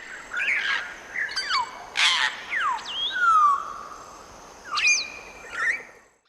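African grey parrot calling: a string of short whistles and falling whistled glides mixed with a few harsher calls, the loudest near two seconds in and again near five seconds in.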